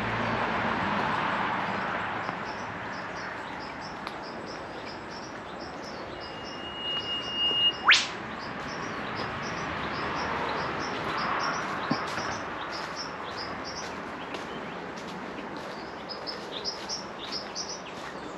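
An eastern whipbird calls once about eight seconds in: a long held whistle that ends in a sharp upward whip-crack, the loudest sound here. Around it small birds keep up a rapid high chirping, and road traffic hiss fades away in the first two seconds.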